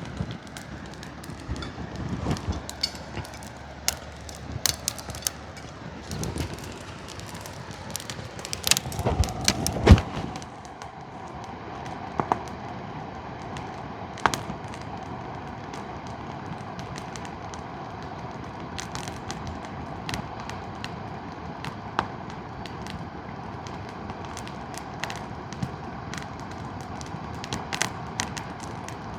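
Bonfire crackling, with sharp pops of burning wood scattered throughout and a cluster of louder pops and low thumps about nine to ten seconds in, over a steady background hiss.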